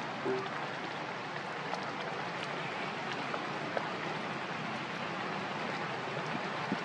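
Steady hiss of falling water, like rain or a waterfall, with faint scattered ticks and a brief squeak just after the start.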